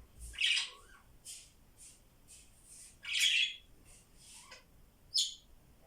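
Pet parrots calling: three loud, harsh squawks, one about half a second in, one around three seconds and one near the end, with fainter short chirps in between.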